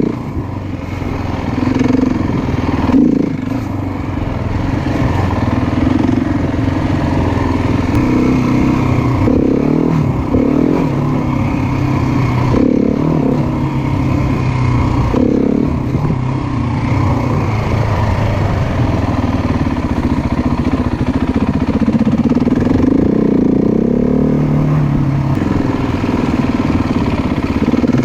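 Trail motorcycle engine running under changing throttle, its revs rising and falling.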